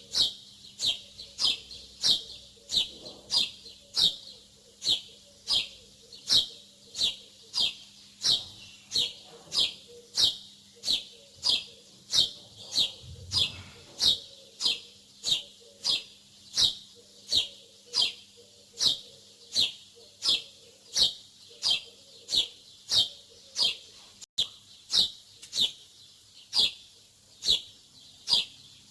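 A small songbird chirping over and over in a steady rhythm, about two short chirps a second, each a quick high note dropping in pitch.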